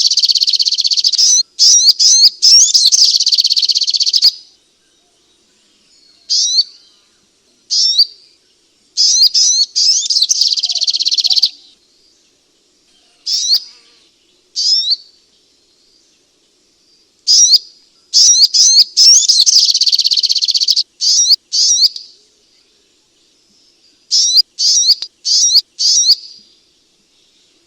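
Sunbird song played as a bird-trapping lure: high, rapid chirping trills in loud bursts of two to four seconds, with single sharp chirps in the gaps between them.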